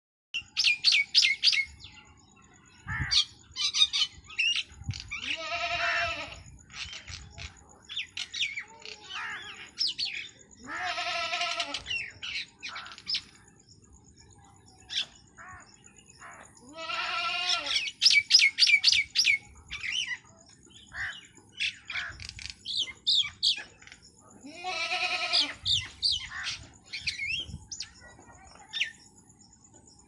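Several birds calling: quick runs of high chirps and twitters, broken about four times by a longer, harsher call of about a second. A faint steady high tone runs underneath.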